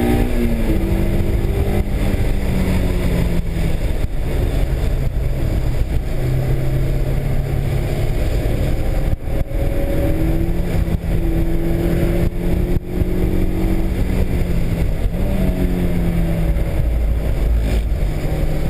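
Honda S2000's four-cylinder engine driven hard on a wet track: the note climbs and falls repeatedly as the car accelerates, lifts and changes gear, over a steady low road rumble. There are brief dips in level about nine and thirteen seconds in.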